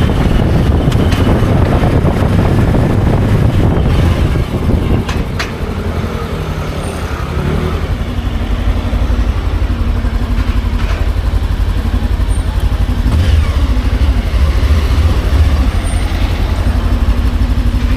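Motorcycle under way, engine running with heavy wind rush on the rider's microphone; the sound eases off about four seconds in and builds back up about eight seconds in.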